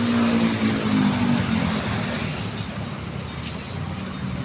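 Motorcycle engine running with steady road and wind noise, its pitch sliding down over the first second and a half.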